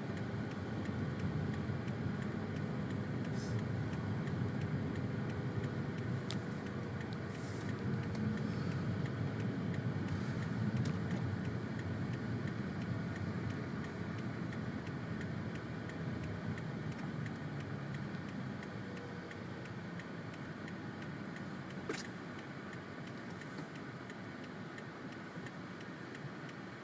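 Car cabin noise while driving on a snow-covered road: a steady rumble of engine and tyres. A few faint clicks come through, and one sharper click late on.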